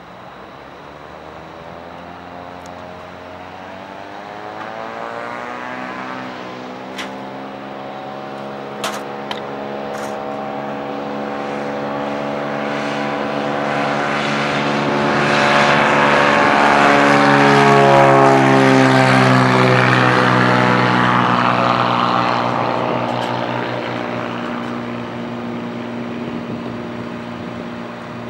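Small propeller airplane passing close by: its engine and propeller sound builds steadily, is loudest about two thirds of the way in with the pitch dropping as it goes past, then fades away. A few sharp clicks are heard early on.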